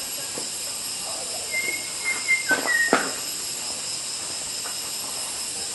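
A white-rumped shama gives a short run of whistled notes and a few sharp calls about two seconds in, over a steady high-pitched hiss.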